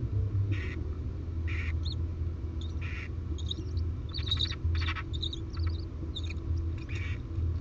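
Barn owls in a nest box making short hissing calls, one about every second, with thin high chirps around the middle, over a steady low hum.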